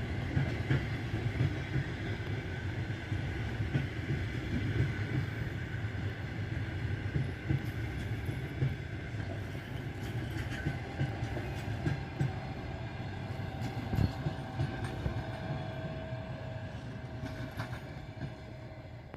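Passenger train coaches rolling past, with a steady rumble and wheels knocking over rail joints, fading away near the end.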